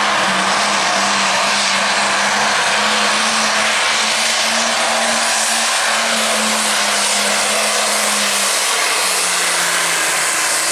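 Super stock pulling tractor's turbocharged diesel engine running hard at high revs, a loud steady drone whose pitch falls slightly over the last couple of seconds.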